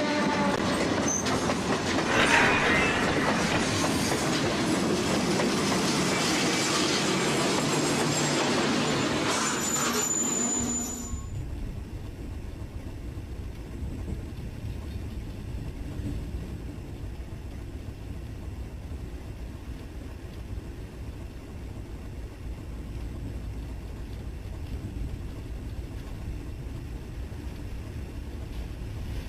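A train running past close by, a loud rail noise with some wheel squeal. About eleven seconds in it cuts off abruptly to a quieter, steady low rumble.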